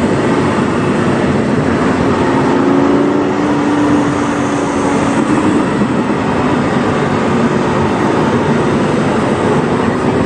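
Lamborghini Huracán's 5.2-litre V10 with a PowerCraft aftermarket exhaust, heard from inside the car while driving at a steady pace. The exhaust drone holds fairly even pitch under a dense rush of road noise, with no revving or shifting.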